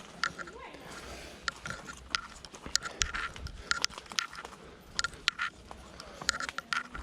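Irregular sharp crunches and snaps of a forest trail's ground litter being crossed, several a second at their busiest.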